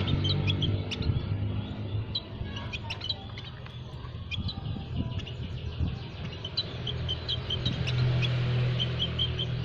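Small aviary birds chirping: many short, high tweets in quick succession throughout. Under them runs a low motor hum, louder at the start and again near the end.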